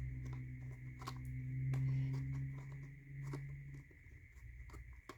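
Wooden puzzle tiles being slid across the box's laser-cut tray, giving scattered light clicks and soft scrapes, over a low steady hum that stops after about four seconds.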